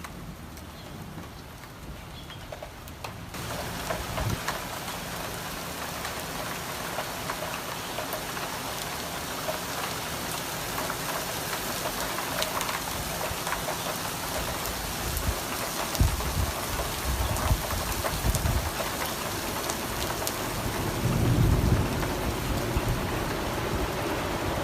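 Heavy rain pouring down, getting suddenly louder about three seconds in, with drops pattering close by. Low rumbles of thunder come in the last third.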